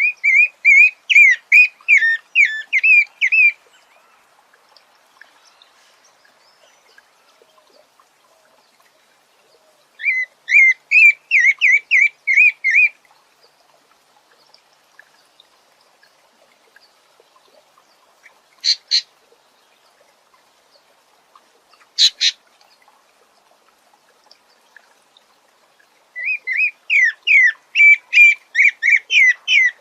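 A sabiá singing three phrases of quick, repeated whistled notes, each lasting about three seconds, with long pauses between them. Two short, sharp sounds come between the second and third phrases.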